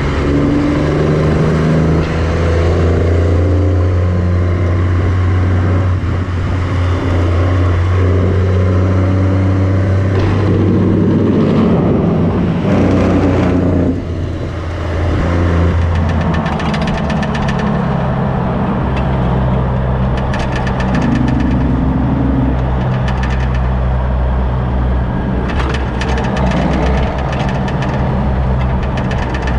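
Heavy diesel truck engine running while driving on the road, its pitch shifting in steps as it goes, with a short drop in loudness about halfway through.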